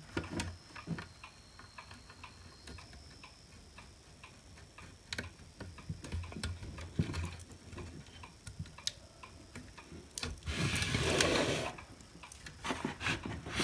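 Scattered small clicks and taps of hands working plastic parts as a cable clip is fitted back onto a hot air gun handpiece, with a brief rustling scrape near the end.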